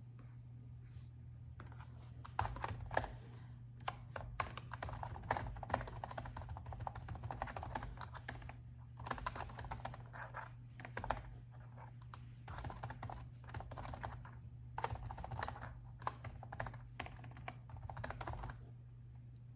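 Typing on a laptop keyboard: quick runs of key clicks in bursts separated by short pauses, starting about two seconds in and stopping shortly before the end, over a faint steady low hum.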